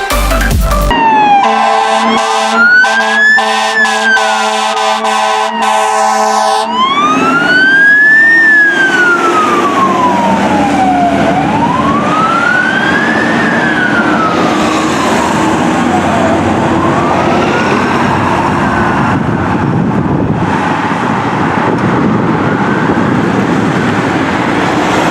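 Fire engine siren wailing, rising and falling slowly, over the truck's engine and road noise. For the first several seconds a steady blaring horn sounds along with the wail. The wail grows fainter toward the end.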